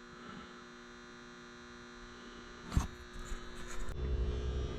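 Steady electrical hum, with a single knock a little under three seconds in, followed by scattered clicks and a low rumbling of handling noise near the end.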